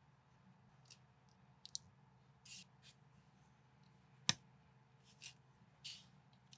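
Plastic building bricks being handled and pressed together: scattered light clicks and brief scraping rustles, with one sharp click about four seconds in.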